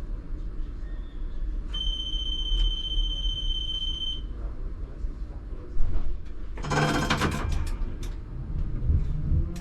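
Tram door-closing warning: a steady, high electronic tone for about two and a half seconds, followed by a knock and a short burst of hiss and clatter as the doors shut, over the low rumble of the stationary Tatra T3R tram.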